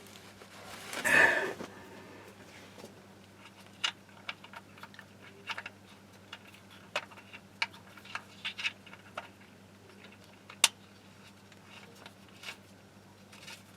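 Irregular light clicks and taps of a hand tool and metal while the gearbox filler plug is refitted, with one sharper click about ten seconds in. A brief louder noise comes about a second in, over a steady low hum.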